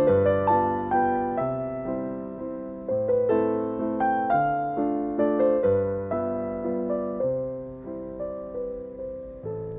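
Gentle background piano music, single notes struck and fading over slow low bass notes.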